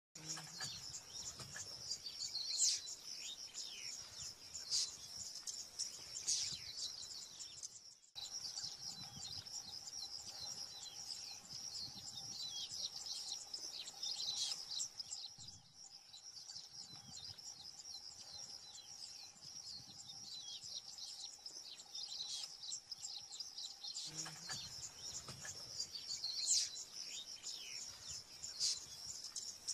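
Chorus of many small birds chirping and calling, thick and continuous over a steady high hiss. The ambience changes abruptly twice, with a faint steady hum in the middle stretch.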